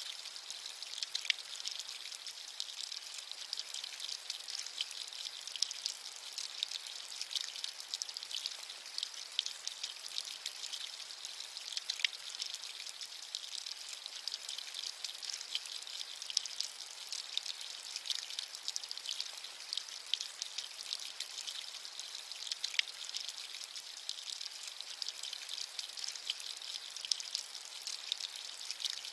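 Steady rain with many distinct drops pattering, a high, even hiss without thunder or low rumble.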